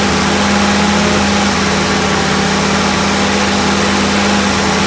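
A 1962 Jeep M170's four-cylinder F-head engine idling steadily.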